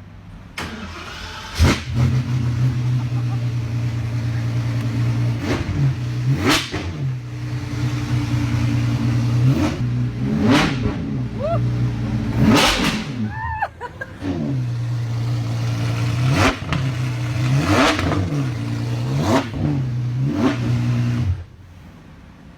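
Apollo Intensa Emozione's naturally aspirated V12 starting and idling, then revved hard about nine times, each rev climbing sharply and falling straight back to idle. It is switched off near the end.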